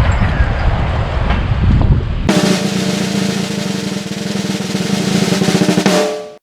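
Wind buffeting the microphone, then an abrupt cut about two seconds in to a rapid snare drum roll over held musical tones, which fades out near the end.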